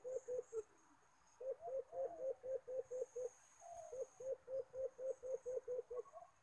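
A bird calling in fast runs of short, hooting notes, about six a second, pausing briefly twice. A faint steady high whine lies underneath until about two-thirds of the way through.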